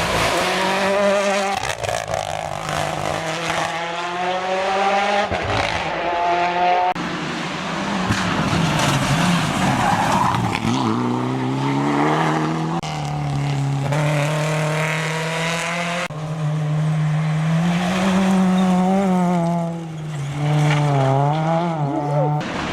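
Rally cars at racing speed, one after another: engines revving hard, their pitch climbing and dropping sharply with each gear change and lift-off.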